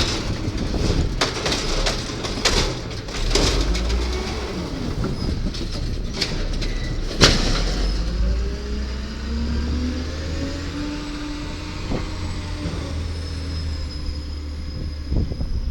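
Garbage truck working: its engine runs steadily under a series of metal clanks and bangs, the loudest about seven seconds in. From about eight seconds a slowly rising whine takes over, the sound of the truck's hydraulics.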